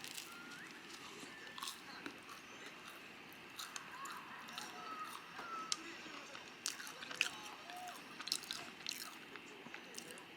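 Close-up eating sounds: scattered crunchy bites and chewing clicks, with faint voices murmuring underneath.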